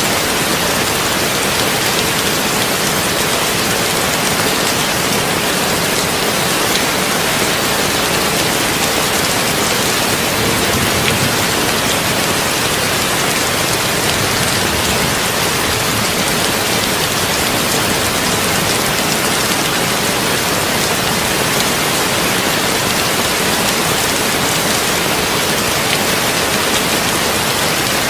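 Heavy rain on a tin roof, falling steadily as a dense, even hiss with fine drop ticks and no change in strength.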